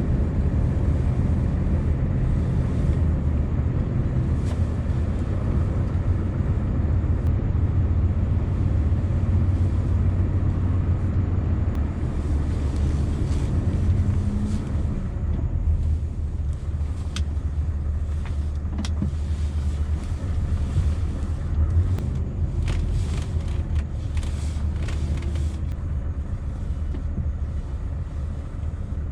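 Scania V8 diesel truck engine running at low revs while the truck manoeuvres slowly. Several sharp clicks and knocks come in the second half.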